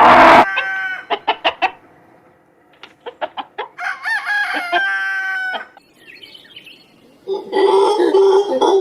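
Chickens clucking in quick short calls, then a rooster crowing for nearly two seconds. The tail of a louder animal call cuts off just after the start, and a lower, louder honking call begins near the end.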